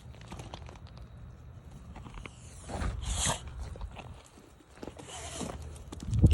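Footsteps crunching through snow over a low rumbling background, with a loud low thump near the end.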